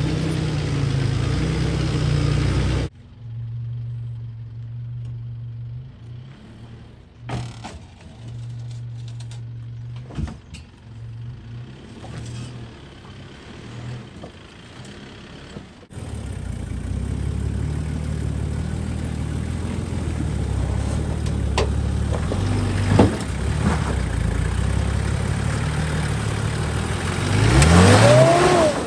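Four-wheel-drive engines working slowly over a rough off-road track. The sound changes abruptly twice, with a quieter stretch in the middle holding a steady low hum and a few knocks. Near the end an engine revs up sharply, its pitch rising.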